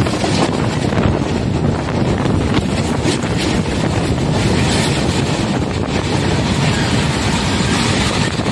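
Running noise of a moving express train: a steady rumble of wheels on the rails, with wind buffeting the microphone.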